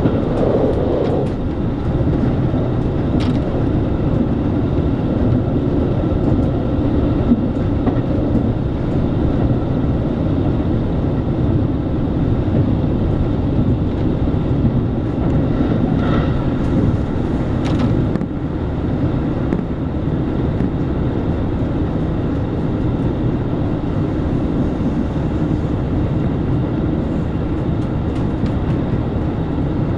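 Local diesel train running at speed, heard from inside the passenger car: a steady rumble of the engine and the wheels on the rails, with a few faint clicks along the way.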